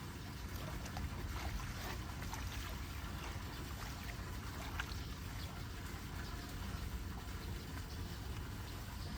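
Floodwater running and trickling into a street storm drain, a steady flow of water with scattered small clicks and splashes.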